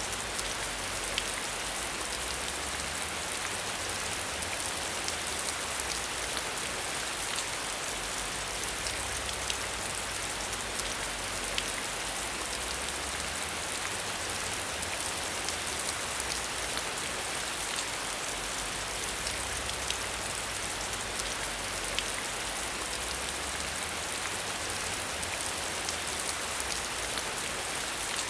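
Steady rain falling, a dense hiss with scattered individual drop ticks and a low rumble underneath.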